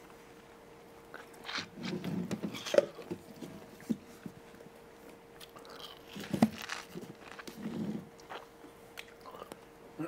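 A person biting into food and chewing it, in clusters of crackly bites about two seconds in and again about six to eight seconds in.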